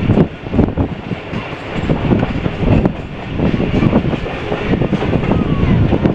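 Passenger train running on the track, heard from aboard one of its coaches: a steady rumble with irregular clattering of the wheels over the rails.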